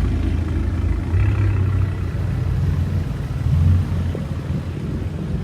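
Car engine running with a deep, steady rumble, swelling briefly twice as if lightly revved.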